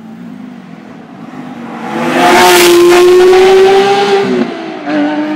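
Porsche 911 GT3 RS's naturally aspirated flat-six accelerating hard past, very loud, its pitch climbing as it nears. About four and a half seconds in the pitch drops for an upshift and the engine pulls on.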